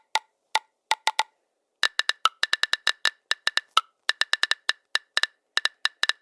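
Smartphone on-screen keyboard key-click sounds, tapped at an uneven typing pace: a few scattered clicks, a pause of about a second, then quick runs of clicks with short breaks. Some clicks are a little lower or higher in pitch than the rest.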